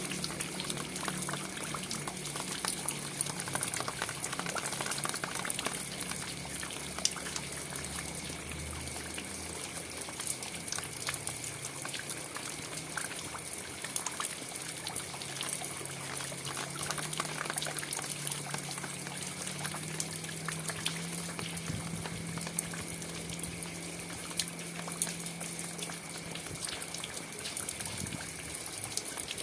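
Steady rain falling, a continuous hiss with many small drops and drips ticking through it. A low hum runs underneath and shifts in pitch now and then.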